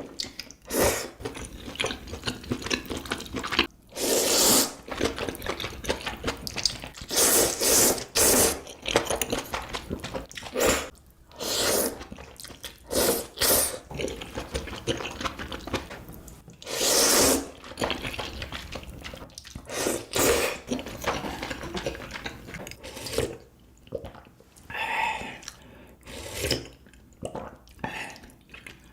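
Close-miked eating of noodles in soup: loud wet slurps come every few seconds, with quieter chewing and sipping in between.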